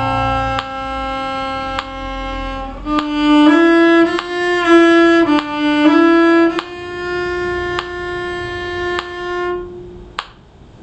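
Violin bowing a slow line of notes: long held notes, a quicker stretch of short changing notes in the middle, then one long held note that stops shortly before the end. A few faint clicks follow.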